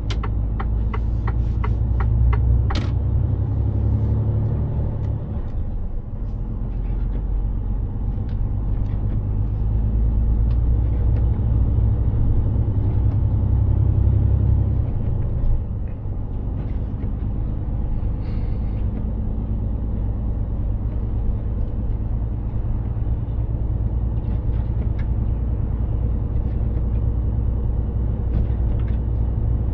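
Mercedes-Benz Actros 2763 truck driving, its diesel engine and tyres giving a steady deep rumble that dips briefly twice. A quick run of ticks sounds in the first few seconds.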